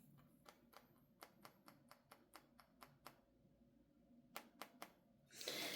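Near silence with faint, scattered light taps and clicks of tarot cards being handled, including a quick run of sharper clicks about four and a half seconds in, and a short soft rush of noise near the end.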